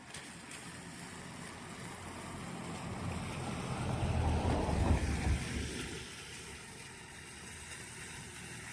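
A motor engine passing by: a low rumble that grows louder, peaks about halfway through, then fades, over a steady wind-like hiss.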